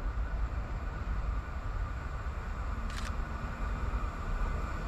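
A train running past on the track: a steady rumble of wheels and rail noise, heaviest in the low end, with a short sharp click about three seconds in.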